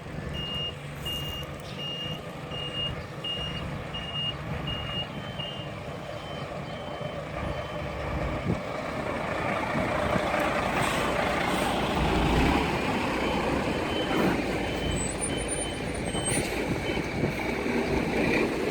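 A heavy vehicle's reversing alarm beeping at a little over one beep a second over a diesel engine running; the beeping stops about six seconds in and returns, fainter, near the end, while the engine grows louder from about halfway.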